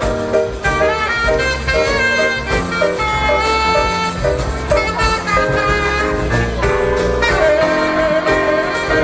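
Live jazz band playing, horns carrying held melodic lines over piano, bass and drums.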